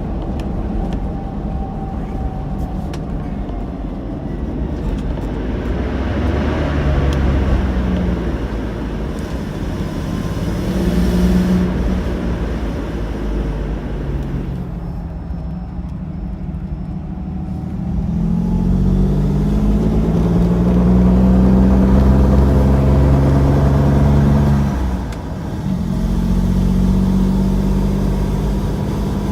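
2001 Isuzu VehiCross 3.5-litre V6 running and revved up and down several times, held high for several seconds before a brief dip and another rise. The owner says it has a very loud vacuum leak and no power on acceleration after being driven with the large intake-to-valve-cover vacuum hose left off.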